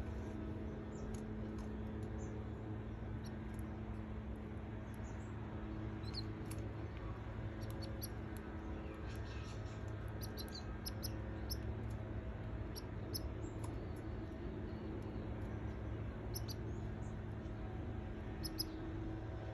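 Canary nestlings giving short, high, squeaky cheeps, scattered irregularly and sometimes in quick little runs, over a steady low hum.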